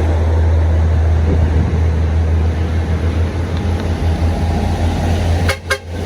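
Steady, loud engine and road rumble from a heavy vehicle such as a bus or truck running on the climb, broken near the end by a brief drop with two sharp clicks.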